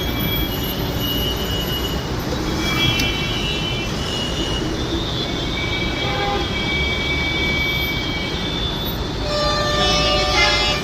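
Tata-engined BS3 bus on the move: a steady rumble of engine and road noise, with short horn toots sounding now and then and several together near the end.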